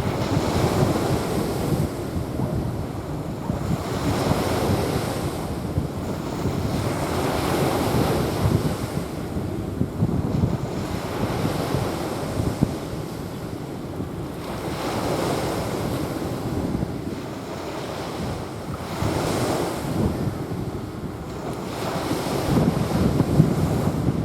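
Small waves washing onto a sandy beach, the surf swelling and falling back every few seconds, with wind buffeting the microphone.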